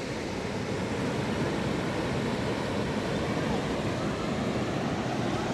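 Fast-flowing mountain river rushing steadily, a continuous noise of water over rocks.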